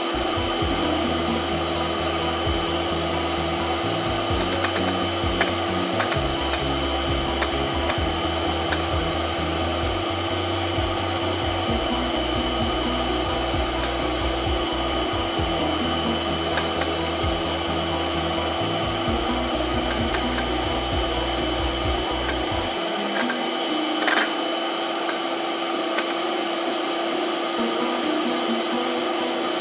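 Electric hand mixer running steadily, its beaters whipping coffee, sugar and egg white into foam in a glass bowl, with scattered short clicks.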